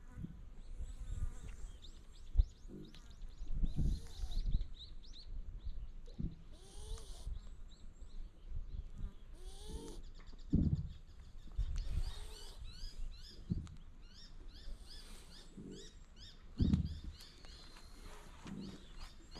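Small birds chirping in short repeated notes, with uneven low rumbling and a few thumps underneath.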